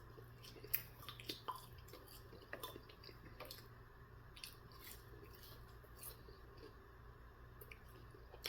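Faint mouth sounds of someone chewing food: soft wet smacks and clicks at irregular intervals over a low steady hum.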